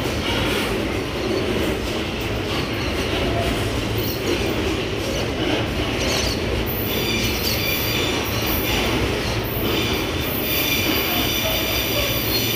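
Freight wagons of a pulp (cellulose) train rolling past on the rails with a steady rumble. About seven seconds in, the wheels start a high squeal of several tones that carries on to the end.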